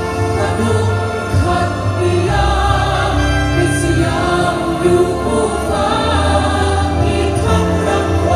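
Choral music: voices singing held chords together over a steady bass, the harmony changing every second or two.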